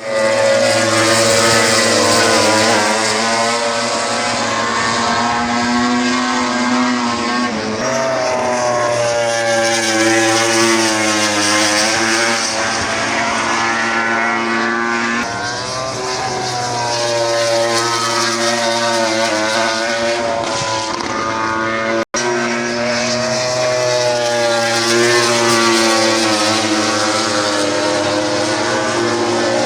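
Racing motorcycle engines running at high revs, several at once, their pitch wavering slowly up and down. The sound cuts out for an instant about three quarters of the way through.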